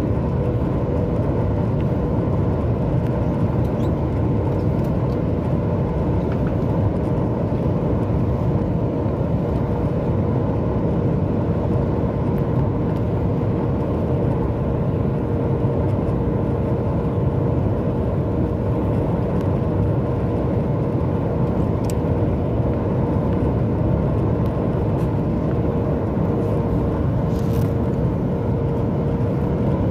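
Steady cabin noise inside a Boeing 737 MAX 8 in flight, with engine and airflow noise making a deep even rush and a steady hum running through it.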